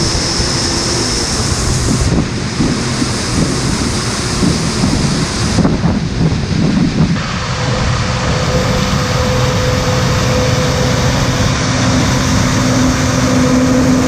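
Harvest machinery running, heard as a steady engine drone under a rushing noise, changing abruptly several times as short clips follow one another. From about seven seconds in, steady whining tones sit over the drone.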